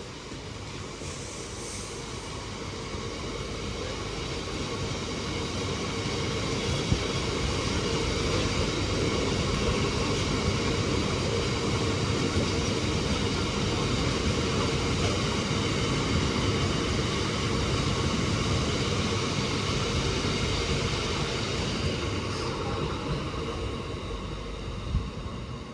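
Freight train hauled by a Class 66 diesel locomotive rolling slowly through the station. The noise builds over the first few seconds, holds steady with a high ringing from the wheels and rails, and fades near the end.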